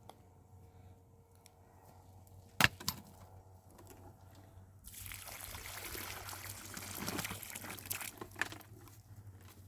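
A sharp knock, then a rush of pouring water for about three seconds that trails off, as collected rainwater is drained away.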